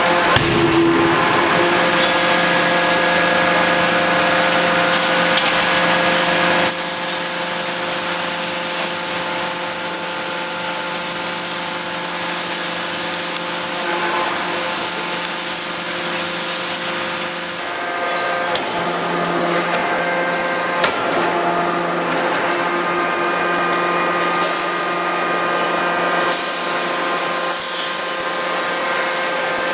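Forging-shop machinery running steadily, with a hum of several steady tones over a noisy rush and no hammer blows. The sound changes abruptly twice.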